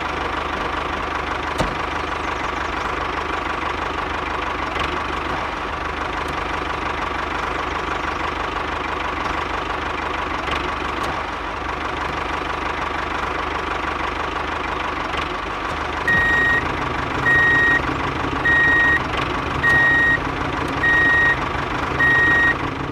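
A small electric motor running steadily with a constant whine. From about two-thirds of the way through, a beeper sounds six times, about once every second and a half, like a reversing alarm.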